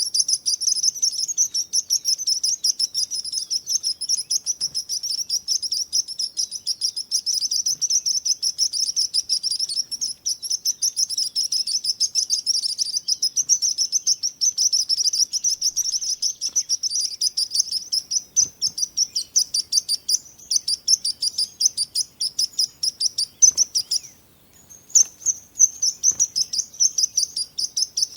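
Small birds chirping in a rapid, unbroken stream of high-pitched notes, with a brief pause about 24 seconds in.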